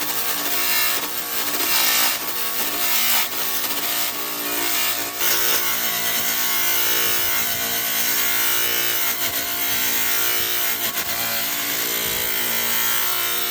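Electric power tool running continuously while cutting or grinding wood: a steady motor hum under a dense rasping noise, surging in loudness during the first few seconds and then holding steady.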